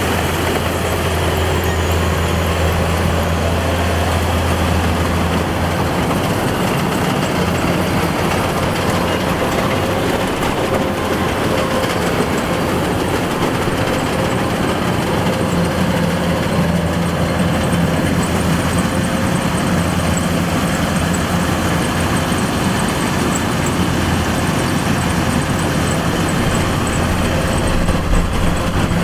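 Kubota DC-105X combine harvester running steadily, a continuous engine-and-machinery hum with a strong low drone that eases off about six seconds in.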